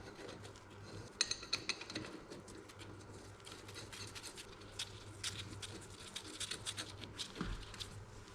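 Light metal clicks, taps and scraping from hand work with tools and bolts on the excavator's hydraulic tank, with a quick run of clicks about a second in.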